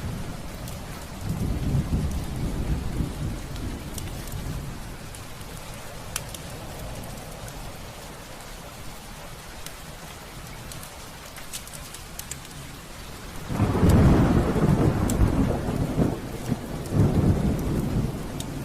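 Heavy rain falling steadily, with a low rumble of thunder about a second in and a longer, louder roll of thunder starting about three-quarters of the way through.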